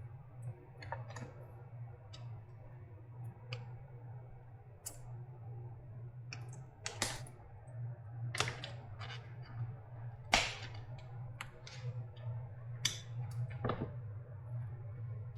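Irregular sharp clicks and snaps of hand tools working at a battery pack's casing and packing, more than a dozen of them, the loudest about ten seconds in, over a steady low hum.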